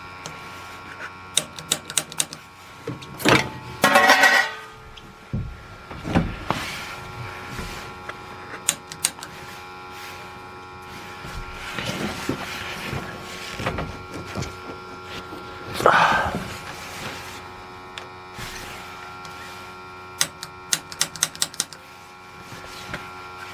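Gas water heater pilot igniter clicked in several quick runs of sharp snaps over a steady hum, with two louder bursts of noise near four seconds and near sixteen seconds in. The pilot is failing to light.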